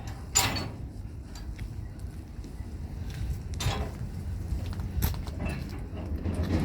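Metal parts of an old railcar being worked by hand: a few scattered clunks and a creak, the loudest a sharp knock about half a second in.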